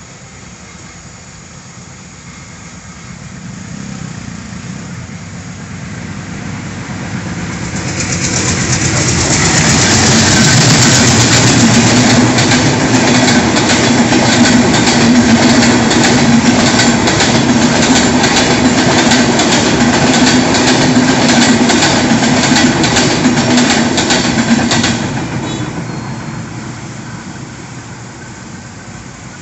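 Bangladesh Railway's diesel-hauled Benapole Express passenger train approaching and passing at speed on broad-gauge track. Wheels clatter rhythmically over rail joints under a steady hum. The noise cuts off suddenly as the last coach goes by, then fades away.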